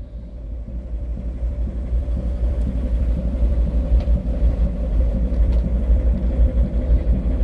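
Low, steady rumble on board a ship under way at sea, with a steady mid hum over it, growing louder over the first two seconds and then holding.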